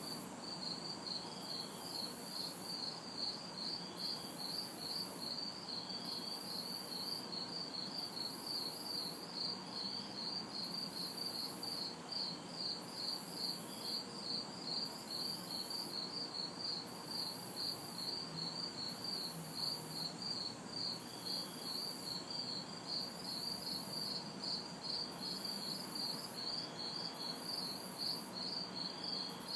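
Crickets chirping in a steady, even rhythm, with a very high insect buzz that comes and goes in regular pulses about once a second. A faint, steady hum of distant traffic lies underneath.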